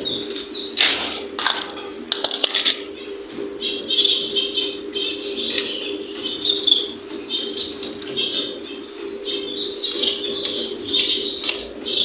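Small cage birds chirping over and over, with a few sharp clatters and rustles in the first few seconds as a feed container is handled, over a steady low hum.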